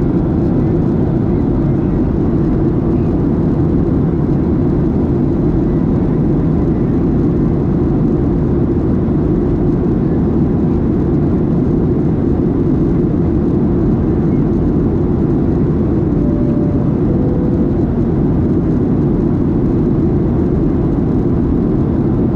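Steady cabin noise of a Boeing 737-700 in flight, the CFM56 engines and airflow making an even low rumble, heard from a window seat during descent. About two-thirds of the way in, a short two-note falling chime sounds.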